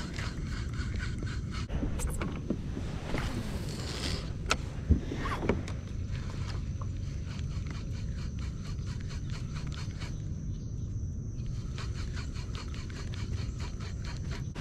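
Wind rumbling on the microphone, with a run of quick light clicks from a fishing reel being cranked in. A few sharper clicks come about four to five seconds in.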